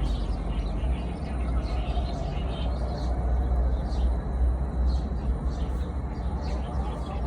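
Budgerigars chirping and chattering faintly in short high calls over a steady low rumble.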